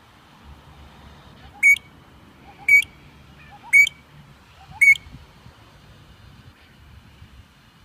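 Magpie-lark giving four sharp, loud calls about a second apart.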